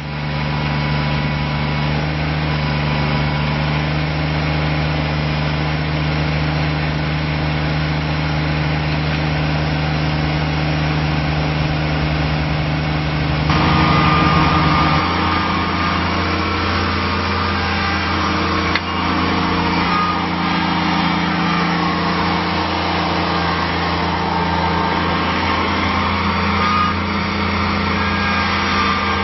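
Kubota BX25D compact tractor's three-cylinder diesel engine running steadily. About halfway through the engine note changes as the throttle is moved, and then holds steady at the new speed.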